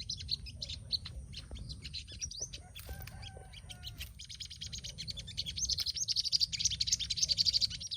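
Sunbirds twittering: rapid runs of high, thin chirps, sparser about a third of the way in and busiest near the end.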